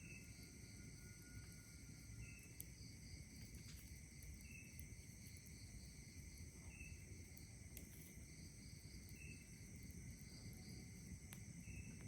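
Faint night insect chorus: crickets trilling steadily in several high tones, with a short chirp repeating about every two seconds. A few faint crackles from a campfire and a low rumble of breeze underneath.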